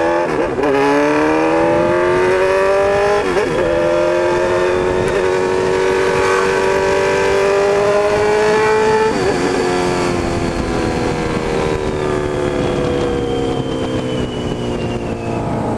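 Honda CB1000's inline-four engine and exhaust accelerating under way: the pitch climbs, drops briefly at gear changes about half a second and three seconds in, and keeps rising slowly. After about nine seconds it dips once more and then sinks gradually as the bike eases off, with wind and road noise underneath.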